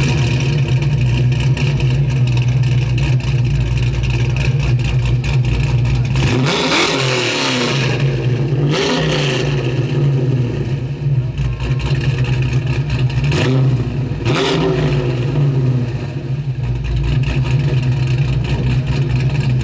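A car's V8 engine, the 426 Hemi, idles steadily and is blipped about four times in the middle, the note rising and then falling back to idle each time.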